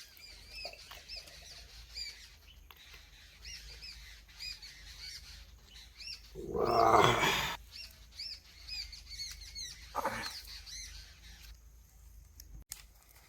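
Small birds chirping, quick high chirps repeating over and over and dying out near the end. About halfway through, a louder, harsh sound lasting about a second stands out, and a shorter one follows about ten seconds in.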